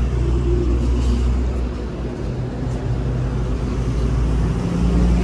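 Diesel engine of heavy machinery running at a steady speed.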